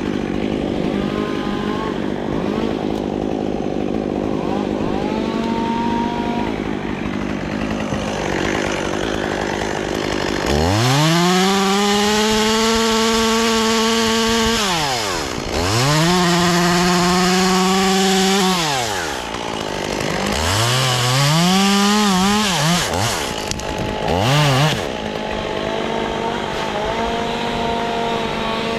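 Chainsaw engine idling, then opened up to full throttle three times for a few seconds each, starting about ten seconds in, with a short blip of throttle near the end before it drops back to idle.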